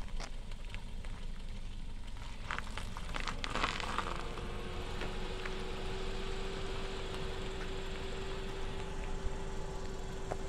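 Kia Picanto hatchback running at low speed while manoeuvring into a parking bay, with a steady hum that sets in about four seconds in. A few clicks and knocks come just before the hum.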